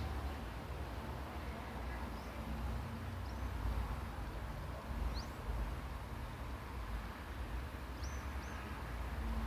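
A few short, high bird chirps, scattered singly and one quick pair near the end, over a steady low rumble.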